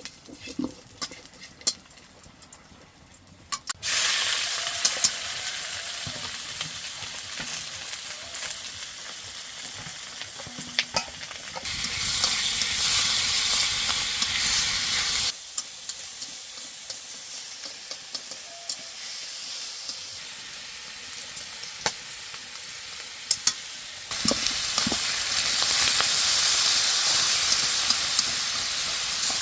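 Food sizzling in hot oil as it is stir-fried, with clicks and scrapes of a utensil against the pan. The sizzle starts suddenly about four seconds in and rises and falls in loudness several times.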